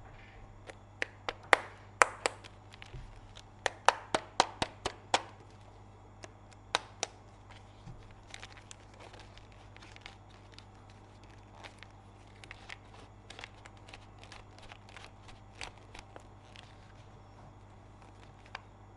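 Hard plastic toy parts and packaging being handled, giving sharp clicks and taps. A quick run of louder clicks comes in the first five seconds, then fainter scattered clicks.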